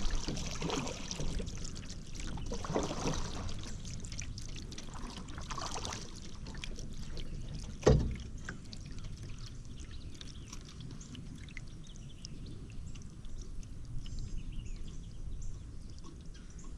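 Kayak paddle strokes: water splashing and dripping off the paddle blades a few times in the first half, and a single sharp knock about eight seconds in. After that the water goes quieter, with faint bird chirps near the end.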